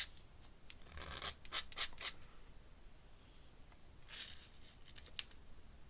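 Ink pen scratching across paper in short, quick strokes, in one cluster about a second in and another about four seconds in.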